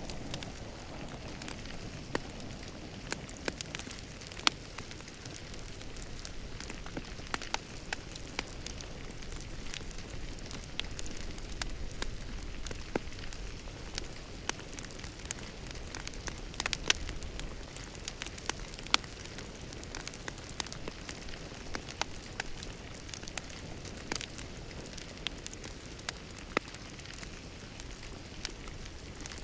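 A fire crackling in a fireplace: a steady low rumble and hiss, with irregular sharp pops and snaps scattered throughout.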